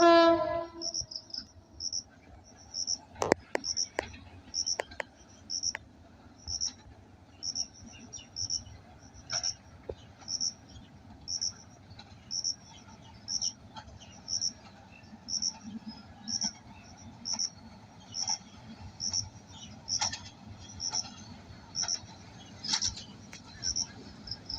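An insect, cricket-like, chirping steadily in short, high, evenly spaced chirps, about three every two seconds. A brief pitched tone sounds right at the start, and a few sharp clicks come about three to five seconds in.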